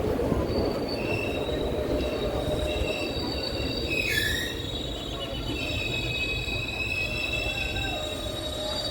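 Express passenger train running on the rails, a steady rumble with high-pitched wheel squeal tones that come and go. About four seconds in, a short squeal slides down in pitch.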